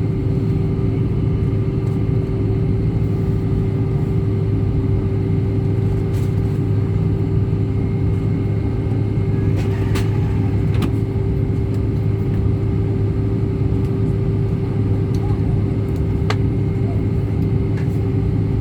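Steady cabin rumble of an Airbus A319 taxiing, engines at low thrust with a constant hum running under it. A few clicks from the cabin come through, the sharpest about ten and sixteen seconds in.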